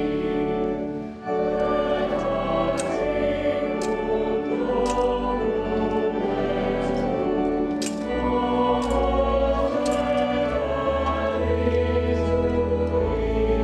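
Choir singing a hymn over held low accompaniment notes, with a brief dip in level about a second in.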